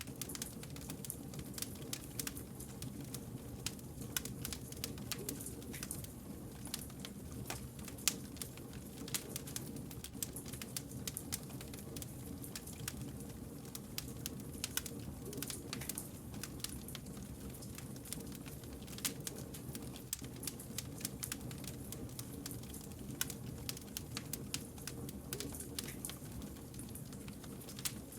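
Wood fire crackling: dense, irregular sharp pops and snaps over a steady low rush of burning logs, with one louder pop about eight seconds in.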